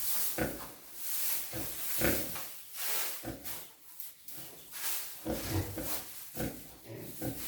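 Pigs grunting in short, repeated bursts, about one a second.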